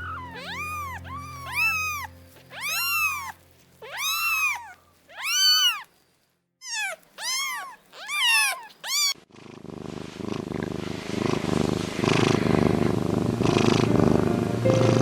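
A kitten meowing over and over: about a dozen short, high calls, each rising and falling in pitch, over the first nine seconds. It then cuts to a louder, steady, rough low rumble with music behind it.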